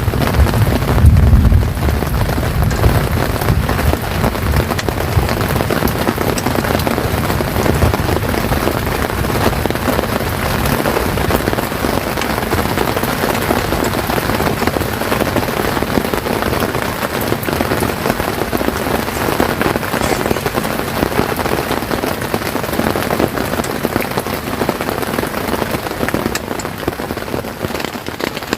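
Steady heavy rain falling on a tent, with a deep low rumble in the first couple of seconds.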